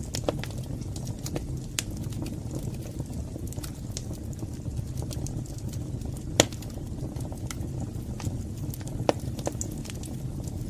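Wood fire burning in a fireplace: a steady low rumble of flames with irregular crackles and snaps. Two louder pops stand out, a little past the middle and again near the end.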